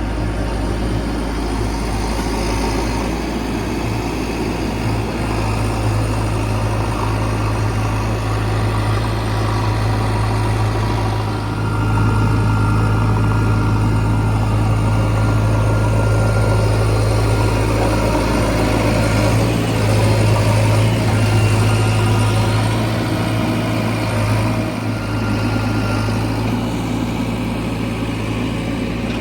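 Diesel engine of a JCB 3DX backhoe loader running steadily while loading sand. It gets louder for about ten seconds in the middle and then settles back.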